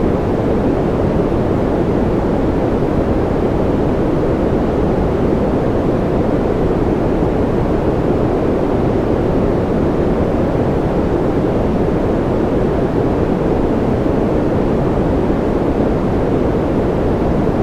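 A continuous white-noise ambience track: an even, unbroken hiss that sounds deep and muffled rather than bright, never changing in level.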